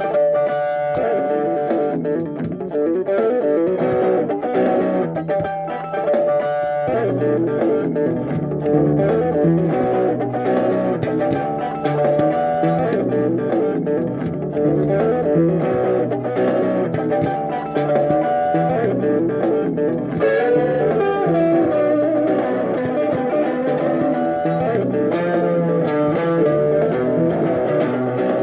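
Improvised guitar jam: an electric guitar plays a continuous run of plucked notes, with a lower part coming in about seven seconds in.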